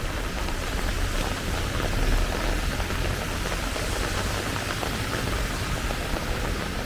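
Heavy rain falling steadily: a dense, even hiss with faint scattered drop ticks, over a continuous low rumble.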